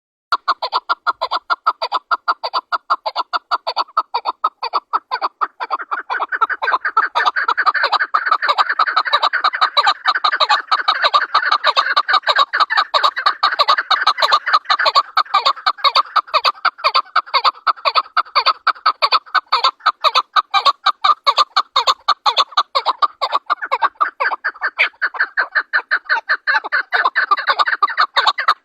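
Chukar partridge calling: a fast, unbroken run of short clucking notes, about five or six a second. The run grows denser and louder about six seconds in.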